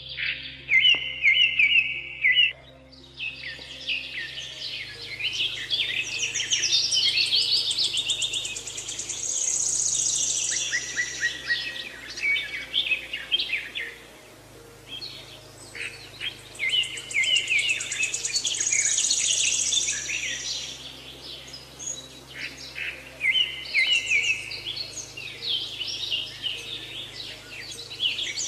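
Several birds singing, with many quick chirps and high trills in long phrases separated by short lulls, over a faint low steady drone.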